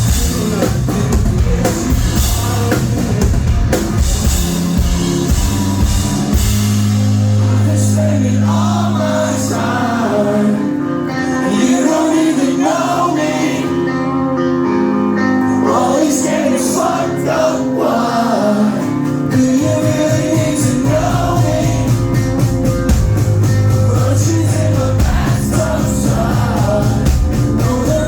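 Live rock band playing, with sung vocals. The drums and bass drop out about six seconds in, leaving guitar and singing, and the full band comes back in about two-thirds of the way through.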